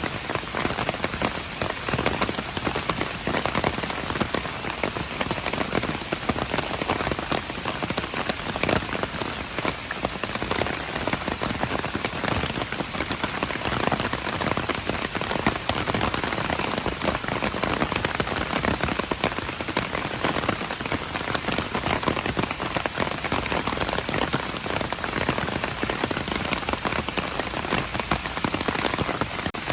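Steady rain falling: a dense, even patter of countless small drop impacts over a continuous hiss, unchanging in strength.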